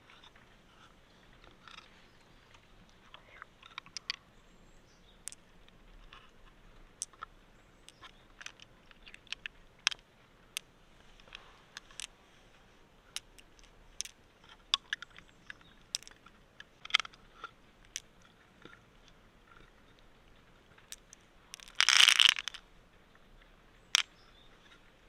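Irregular sharp clicks and crunches, one or two a second, from close-up handling, with one louder crunching scrape lasting about a second near the end.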